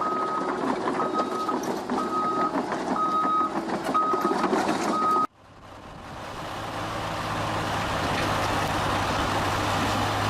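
Backup alarm on heavy machinery beeping about once a second over engine noise and clatter. About five seconds in it cuts off abruptly, and a heavy vehicle's engine is heard running steadily with a low hum.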